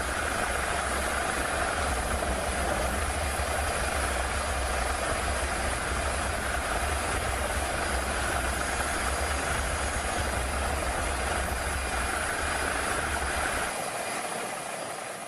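Steady roar of storm wind and heavy seas, with a deep rumble underneath that drops away near the end as the sound fades out.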